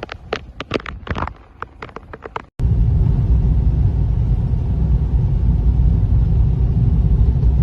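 A quick run of sharp crunching clicks, then, after an abrupt cut about two and a half seconds in, a loud, steady low rumble.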